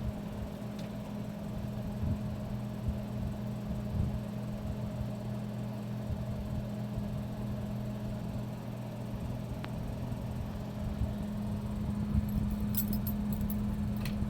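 A 42-inch ceiling fan running on medium speed: a steady motor hum with an uneven low rumble underneath, and a few light clicks near the end.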